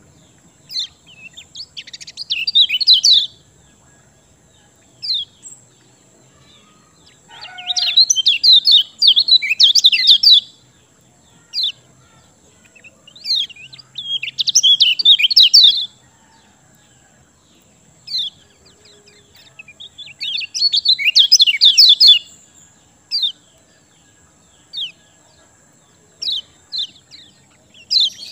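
Kecial kuning (yellow-bellied warbler) singing: bursts of rapid, high chirping about two seconds long, repeated roughly every six seconds, with single short notes in between.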